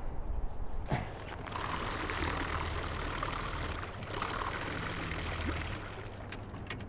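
Small boat under way on the water: a steady low motor hum with water rushing along the hull. There is a knock about a second in and a few light clicks near the end.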